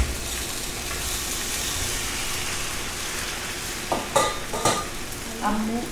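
Tomato masala frying in a steel kadhai, a steady sizzle as boiled penne is tipped in from a steel colander, with a couple of short clinks about four seconds in.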